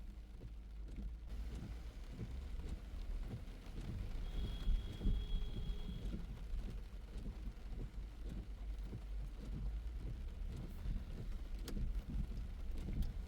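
A car driving on a wet road, with a steady low rumble of engine and tyres and irregular low bumps. A thin high tone sounds for about two seconds a few seconds in.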